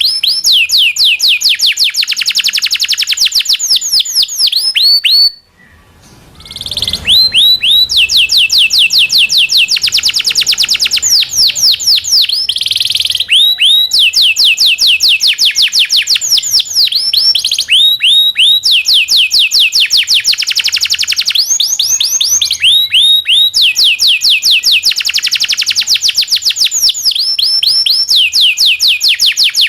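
Local canary singing long, fast rolling trills of rapidly repeated falling notes, with a break of about a second about five seconds in.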